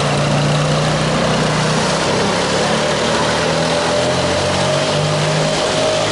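Quad bike engine running, its pitch shifting up and down as the throttle changes, under a steady rushing noise.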